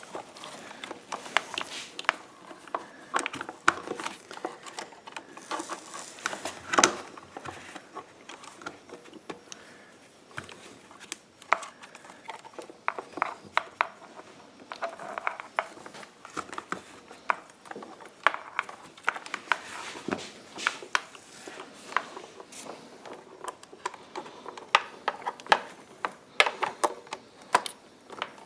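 Hands working a wiring harness and radio module down into a generator's plastic housing: scattered small clicks, taps and rustles, with one louder knock about seven seconds in.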